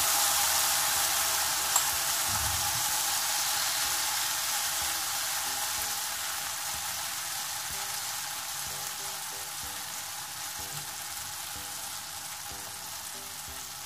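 Besan (gram-flour) omelette batter sizzling in hot oil on a tawa: a steady frying hiss, loudest as the batter goes in and slowly dying down, with one light click about two seconds in.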